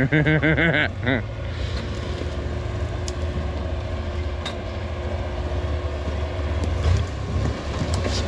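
Off-road rock crawler's engine running steadily at low speed, a low rumble, with a short pulsing burst of a person's voice in the first second.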